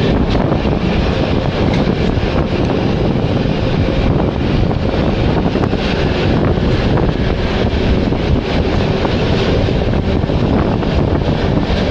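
Wind buffeting the microphone from an open window of a passenger train moving at speed, over the steady rumble of the carriage running on the rails.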